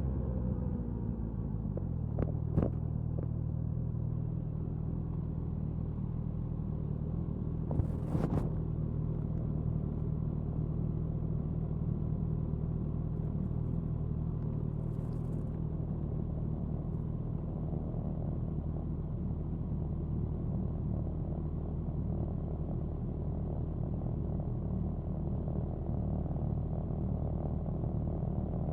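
Suzuki Hayabusa's inline-four engine and exhaust while cruising at speed. The engine note drops in the first second, then holds steady. Two short sharp knocks come through, one at about two and a half seconds and one at about eight seconds.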